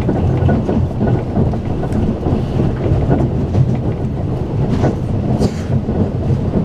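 Talgo passenger coach running at speed, heard from inside: a steady low rumble of the wheels on the rails, with a couple of brief sharp clicks about five seconds in.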